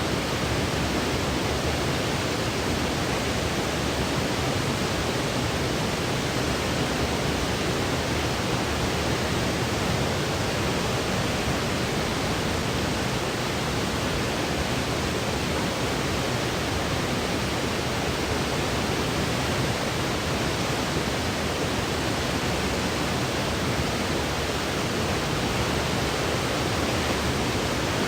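Sleep-aid white noise: a steady, unchanging hiss with a full low end and a softer top.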